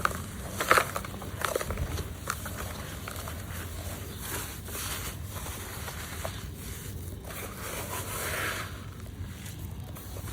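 Chunks of gritty red dirt crumbled and crushed between the hands: sharp crackling snaps in the first few seconds, then softer gritty scraping and rustling as the crumbs are rubbed.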